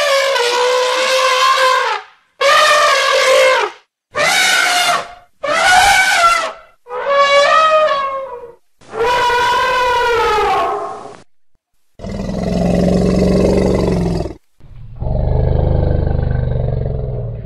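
Elephants trumpeting: six loud calls of one to two seconds each, wavering in pitch, followed by two longer, lower, rougher roaring calls.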